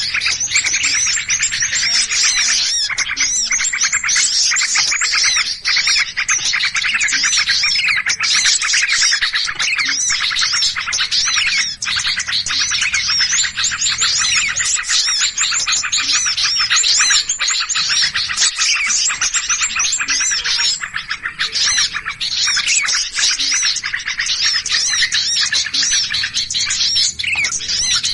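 A dense chorus of many small birds chirping and scolding at once, agitated and overlapping with no let-up: a bird-trapping lure recording of noisy, alarmed small songbirds.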